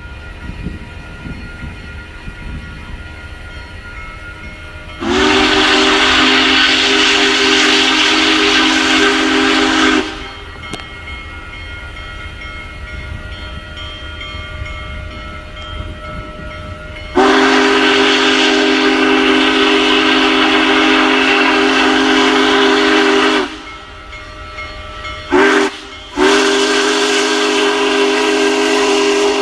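Union Pacific Big Boy #4014 steam locomotive sounding its chime steam whistle in the grade-crossing pattern: long, long, short, long. The last blast runs on. Under the whistle is the low rumble of the train running.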